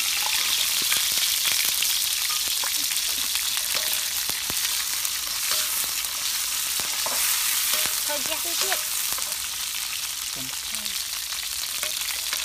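Lemongrass stalks sizzling steadily in hot oil in a steel wok, with a wooden spatula clicking and scraping against the pan as they are stirred.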